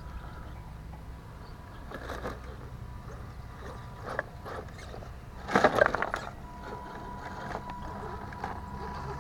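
Scale RC crawler truck driving: a faint steady electric-motor whine with scattered clicks, and a burst of knocks and clatter about five and a half seconds in.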